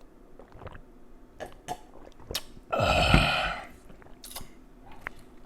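A person burping loudly once, for about a second, a few seconds in, with small wet mouth and eating clicks around it.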